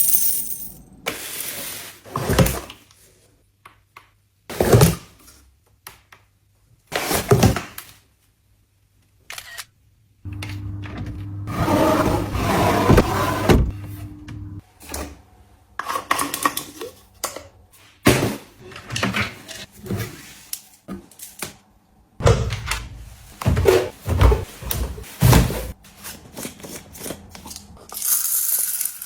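Household objects being handled and set down: a series of separate knocks, clicks and rustles with short pauses between them. About ten seconds in, a steady hum with a noisy rush runs for roughly four seconds.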